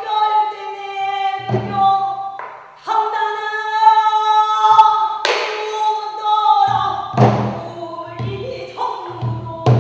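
Pansori singing: a solo voice holding long, wavering notes, accompanied by strokes on a buk barrel drum. The drum strokes come more often in the second half as the voice breaks into shorter phrases.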